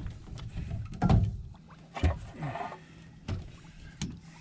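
A few sharp knocks and thumps on a small boat, about a second apart and loudest about a second in, as gear and fishing rods are shifted around, over a low steady hum.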